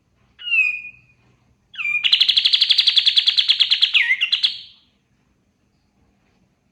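Kapas tembak singing: a short down-slurred whistled note, then a long, fast trill of about a dozen notes a second lasting nearly three seconds, ending in a few quick slurred notes.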